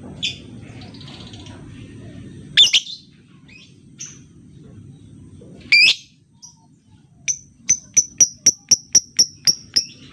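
Lovebird calling: a few loud, shrill single calls, then, in the second half, a fast even run of short sharp chips at about four a second.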